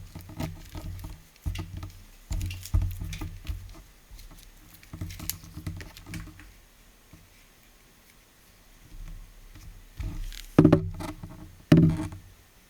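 Irregular clicks, rattles and rustles of a vacuum cleaner's plastic parts being handled during disassembly, with two louder knocks near the end.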